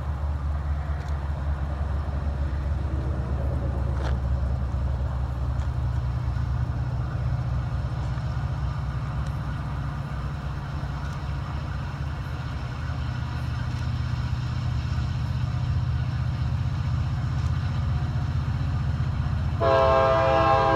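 Diesel freight locomotives running under heavy load, a steady low engine drone that grows louder over the second half; the engines are straining to pull a 14,000-ton train with one unit dead. A locomotive horn starts blowing loudly about a second before the end.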